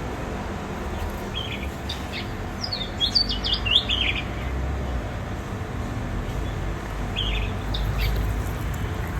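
Birds chirping in short high bursts: a couple of notes early on, a quick run of falling chirps about three seconds in, and a few more near the end, over a steady low rumble.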